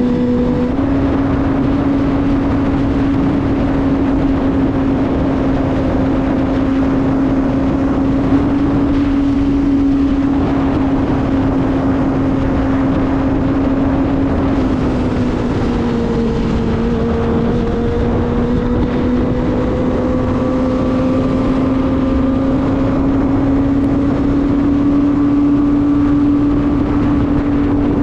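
Kawasaki ZX-25R's 250 cc inline-four engine running at steady high revs while riding. The note holds level, drops a little about halfway through, then rises slowly toward the end.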